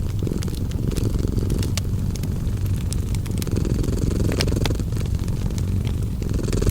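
Domestic cat purring steadily, the purr swelling and easing every couple of seconds with its breathing. Wood fire crackling over it with frequent sharp pops.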